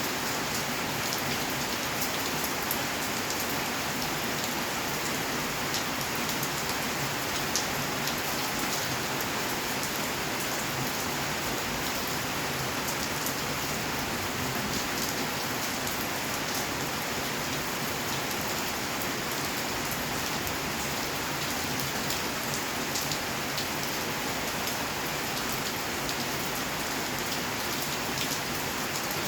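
Steady rainfall: an even hiss of rain with many small drop ticks landing on surfaces.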